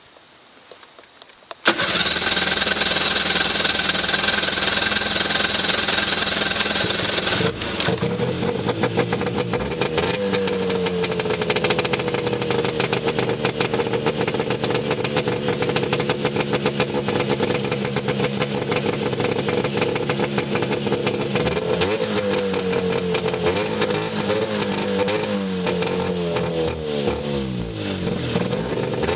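1987 Yamaha Excel 340 snowmobile's two-stroke engine catching abruptly about two seconds in and running fast and high-pitched for about five seconds, then settling to a lower, uneven running speed with the pitch rising and falling.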